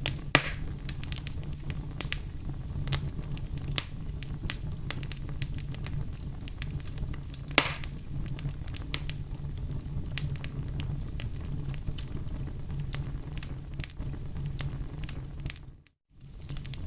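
Wood campfire crackling, with sharp snaps scattered throughout over a steady low rumble of the flames. Two louder pops stand out, one just after the start and one about seven and a half seconds in, and the sound cuts out for a moment near the end before resuming.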